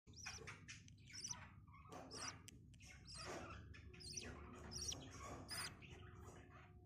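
Budgies chirping faintly: a steady run of short, irregular high-pitched chirps.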